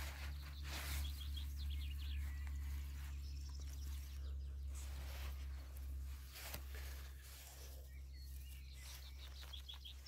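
Faint birdsong: short high chirping phrases repeated several times over a low steady rumble, with a few brief rustles of grass being brushed.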